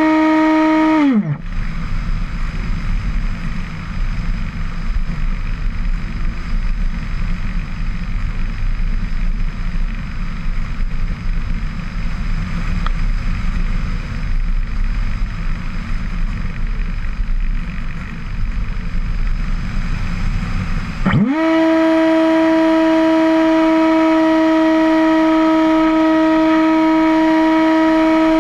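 Motor and propeller hum of a radio-controlled model aircraft: a loud, steady tone that glides down in pitch and cuts out about a second in, leaving a low, rushing rumble like wind, then glides back up to the same steady tone near the end.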